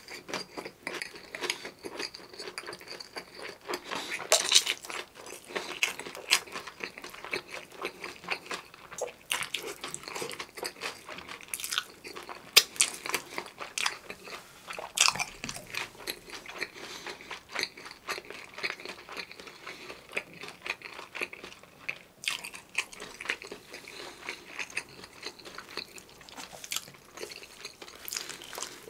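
Close-miked chewing of a mouthful of bhc Bburinkle fried chicken: irregular crisp crunching of the seasoned crust mixed with wet mouth sounds, with a few sharper, louder crunches along the way.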